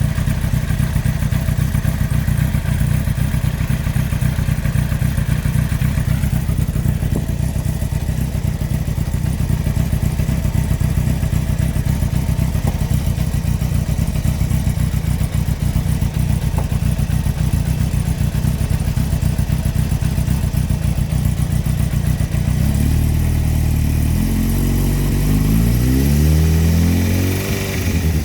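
2003 Yamaha R1 (5PW) inline-four engine idling with a knock, then revved up and down several times in the last few seconds. The knock comes from a failed big-end bearing on cylinder four.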